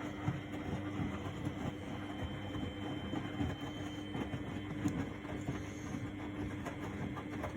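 1999 Miele Novotronic W828 front-loading washing machine running a wash cycle: a steady motor hum with a low rumble and scattered light knocks as the drum turns the load.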